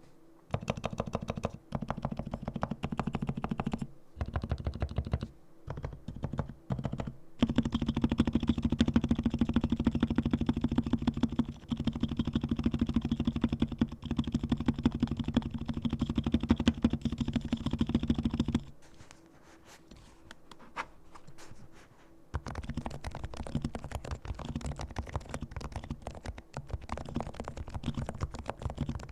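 Realforce R2 silent keyboard with Topre electrostatic capacitive switches, fully lubricated, being typed on: short runs of muted keystrokes, then a long fast stretch of typing. The typing stops for a few seconds and then starts again.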